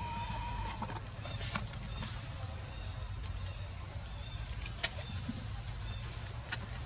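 Short, high-pitched bird chirps, each a quick swoop, repeating about once a second over a steady high hiss and a low rumble, with a few faint clicks.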